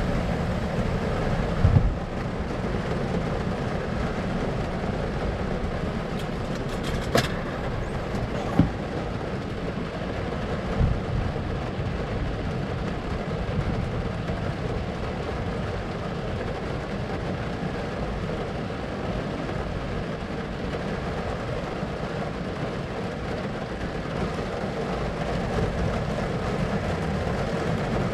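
Steady low rumbling noise with a few brief knocks in the first third.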